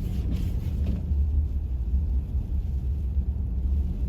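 Steady low rumble of a car moving slowly, heard from inside the cabin.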